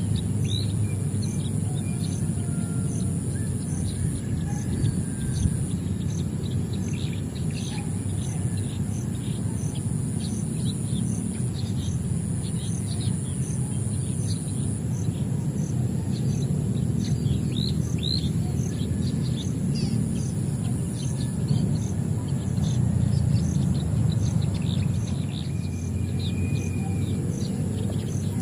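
Many small birds chirping in short, quick downward notes, scattered throughout. Behind them runs a steady high-pitched drone that pulses about twice a second, over a constant low rumble.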